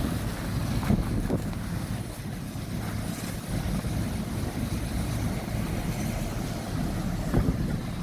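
Car on the move: a steady low rumble of road and engine noise, with a few light knocks, about one second in and again near the end.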